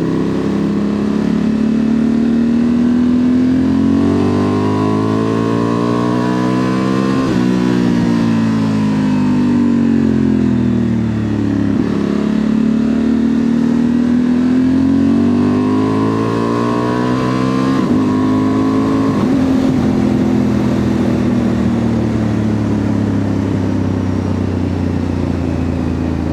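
2025 Honda Transalp's 755 cc parallel-twin engine, breathing through a Dominator MX2 slip-on exhaust, on the move. It pulls up through the revs twice, and each time the pitch falls away as the throttle is eased off. It then runs at a steady pitch, with wind and road noise throughout.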